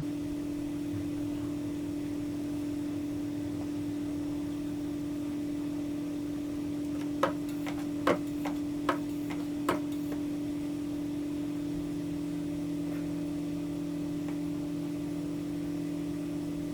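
A steady mechanical hum at one even pitch, with four sharp clicks about a second apart near the middle.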